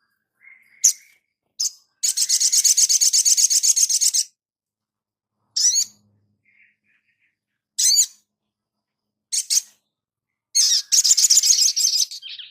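Sunbird song: short high-pitched chirps and two long rapid trills of about two seconds each, one a couple of seconds in and one near the end.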